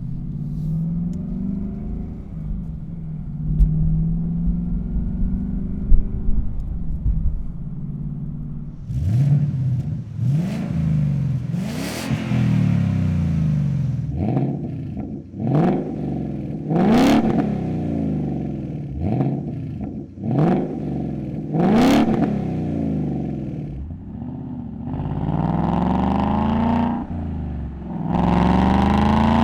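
A 2018–2023 Mustang GT's 5.0 L V8 through an XForce Varex 3-inch cat-back exhaust. It runs steadily for several seconds, then gives a string of about eight quick revs, each climbing sharply and dropping back, and near the end a longer, held rise in engine speed.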